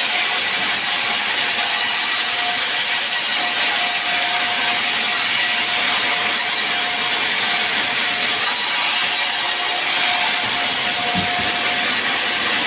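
Sawmill saw cutting sengon wood: a steady, high-pitched hissing noise that carries on without a break.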